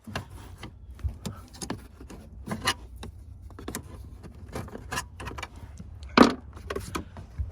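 A part being pulled and torn loose by hand during a vehicle teardown: irregular clicks, knocks and short scrapes, with one louder knock about six seconds in.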